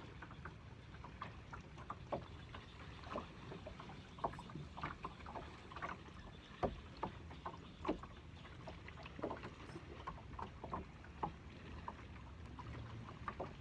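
Water lapping and slapping gently, with irregular small clicks and knocks a few times a second over a low steady rumble.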